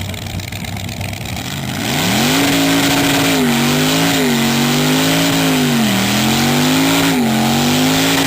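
Police car engine idling, then revved up about two seconds in and held at high revs, dipping and rising again several times, with a loud steady hiss of spinning tyres: a skid or burnout on the drag strip.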